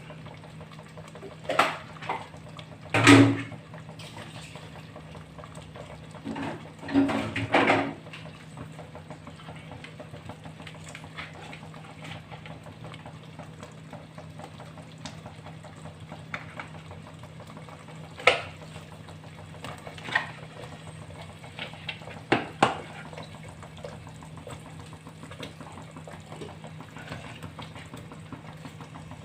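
Cookware clattering: a spoon and dishes knocking against a cooking pot as chicken is added to a simmering curry. There are several knocks in the first few seconds and a few more spread out later, over a steady low hum.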